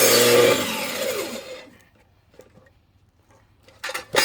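Corded electric saw cutting into a log, then released so its motor winds down with a falling whine until it stops, followed by a few short knocks near the end.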